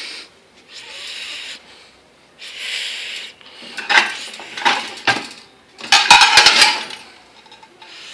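Dishes and cutlery in a dishwasher's racks clinking and clattering, after a couple of short sliding scrapes; the loudest clatter, a quick run of sharp metallic clinks, comes about six seconds in.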